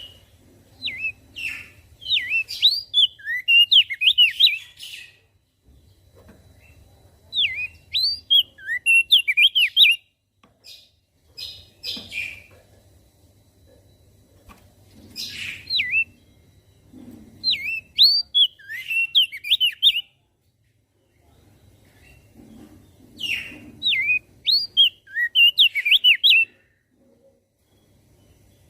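Crested white-eye (opior jambul) singing: four bursts of quick, high, twittering notes, each lasting a few seconds, separated by short pauses.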